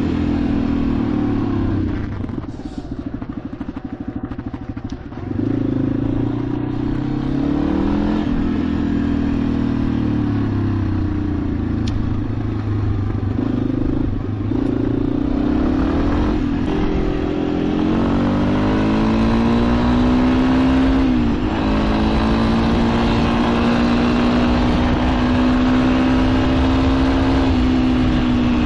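Motorcycle engine under way, its pitch rising and falling with the throttle. It goes quieter for a few seconds early on, and about two-thirds of the way through it climbs steadily, drops sharply at a gear change, then holds steady.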